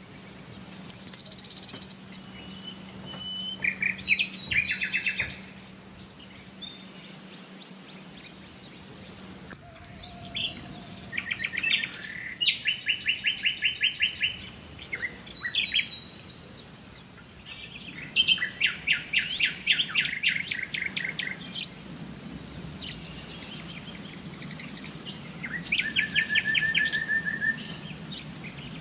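Several songbirds singing, with repeated fast trills and short high whistled notes, over a faint steady low hum.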